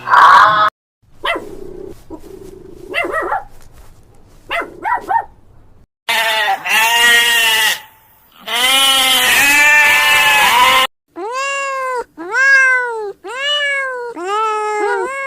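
A run of animal calls from several spliced clips, cut off by short silences: first scattered shorter calls, then two long bleat-like calls, then five shorter arching calls repeated about every 0.8 seconds.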